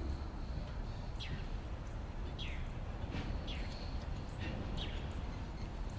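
Low steady rumble of a slow-moving string of railroad tank cars rolling along the track, with a bird repeatedly calling over it: short whistles that slide downward in pitch, about eight of them.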